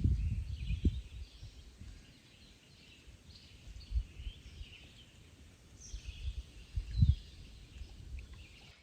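Faint bird chirps, with a low rumble that dies away over the first two seconds and a few soft low thumps about four and seven seconds in.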